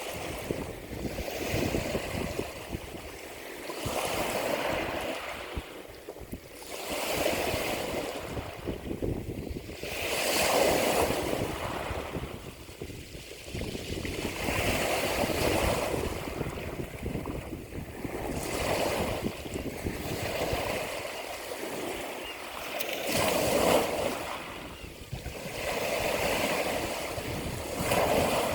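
Ocean surf: waves swelling and washing through in a steady cycle, one surge about every three to four seconds.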